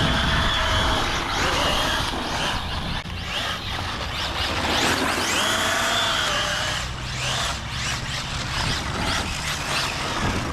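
Arrma Felony 6S RC car's brushless electric motor whining, its pitch rising and falling over and over with the throttle, holding steady for a second or two at times. Tyres scrub and slide on the tarmac as it drifts.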